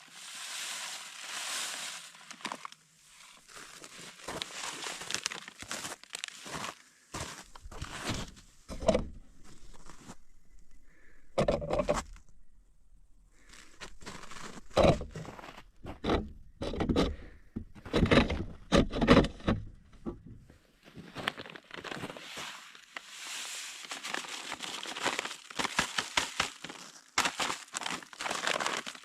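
A plastic bag of salt rustling and crinkling as salt is tipped into a salt-lick trough, with irregular scrapes and several heavier thuds in the middle.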